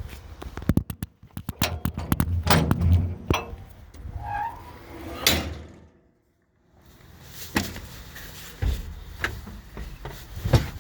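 A run of knocks and metallic clatter, like an engine compartment access door on a Komatsu D65EX bulldozer being handled and banged shut. The sound drops out completely for under a second about six seconds in, then the knocks resume.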